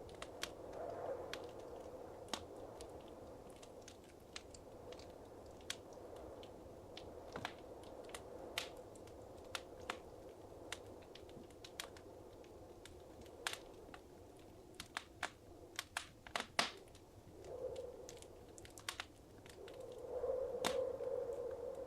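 Wood fire crackling in a fireplace: irregular sharp pops and snaps over a low, steady rush of flame that swells near the end.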